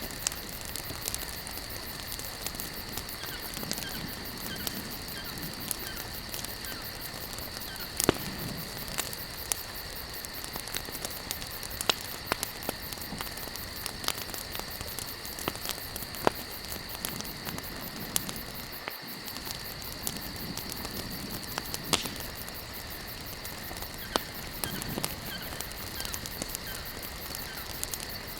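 Campfire of burning logs crackling, with scattered sharp pops a few seconds apart, over a steady high-pitched insect drone.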